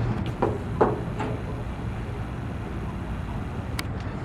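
Three sharp knocks or taps about 0.4 s apart in the first second or so, then a faint click, over a steady low hum and open-air background noise.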